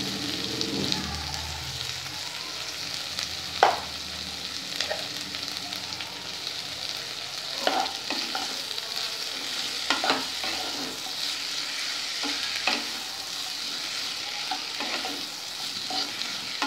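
Chopped vegetables and Malabar spinach frying with a steady sizzle in a kadai, with a few sharp knocks and scrapes from the stirring, the loudest about four seconds in.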